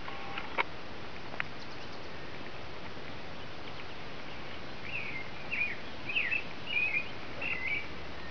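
A bird sings a short run of about six quick chirping notes, starting about five seconds in, over a steady outdoor hiss. Two faint clicks sound in the first second and a half.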